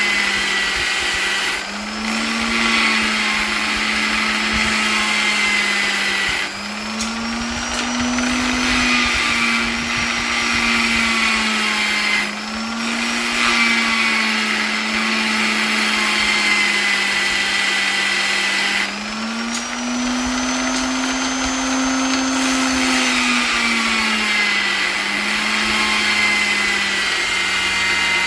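Electric polisher motor running with a steady whine, its speed swelling up and settling back every few seconds, with four brief dips in level.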